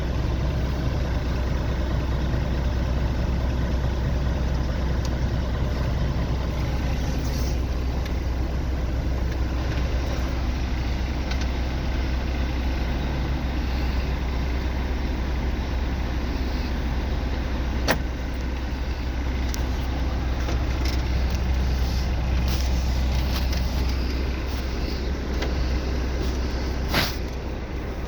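Mercedes-Benz Actros truck's diesel engine idling steadily, with two sharp clicks: one about two-thirds of the way through and one near the end.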